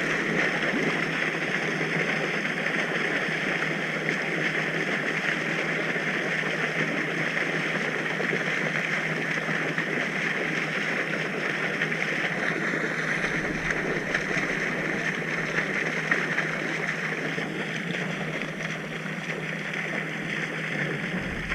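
A steady rushing noise that stays even throughout, with no engine note or distinct knocks in it.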